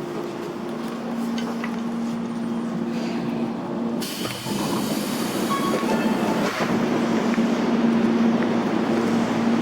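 Electric commuter train of the Tobu Tojo Line running, with a steady hum and a rushing rail noise that grows louder about four seconds in.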